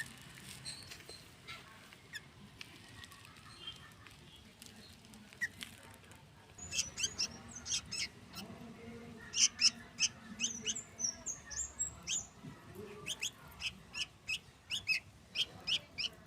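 Young sooty-headed bulbul chirping begging calls while being hand-fed: short, sharp high chirps in quick runs. They start about six seconds in and come thickest in the second half.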